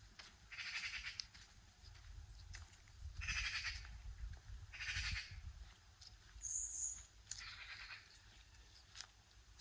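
Slow footsteps crunching on a loose, gritty surface, one step every couple of seconds. A brief high chirp comes about halfway through.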